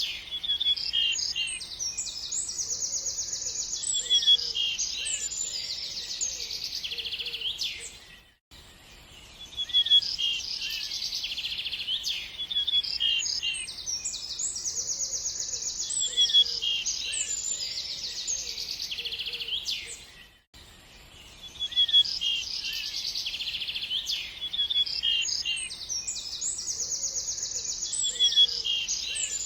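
Small birds chirping and singing fast high trills over a faint steady background hiss. The same stretch of birdsong repeats about every twelve seconds as a loop, with a brief drop-out between repeats.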